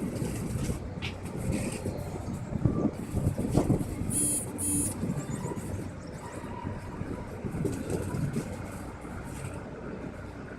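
Passenger train running along the track, heard from on board: a steady rumble with irregular knocks and clatter, and two short high-pitched sounds about four seconds in.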